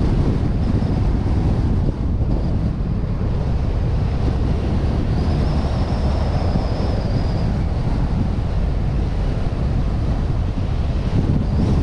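Wind buffeting the microphone of a suction-cup-mounted action camera on a moving vehicle, over a steady low road and engine rumble. A faint high whine rises out of it for a couple of seconds midway.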